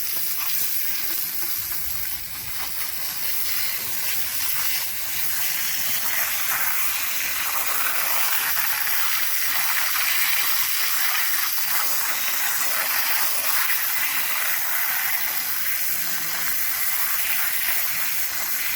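Water spraying hard from a hose onto degreaser-soaked lawnmower parts, a steady hiss as the degreaser is rinsed off.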